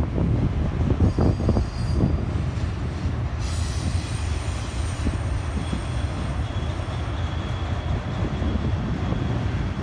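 Autorack freight cars rolling past, steel wheels rumbling on the rails with a few clicks over the rail joints in the first couple of seconds. From about three and a half seconds in, a thin high wheel squeal rides over the rumble.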